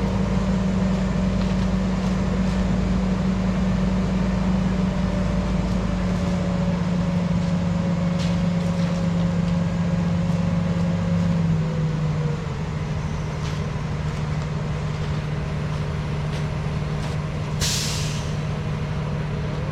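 Diesel engine of a truck-mounted crane running steadily, its pitch stepping down about twelve seconds in. A short hiss of air comes near the end.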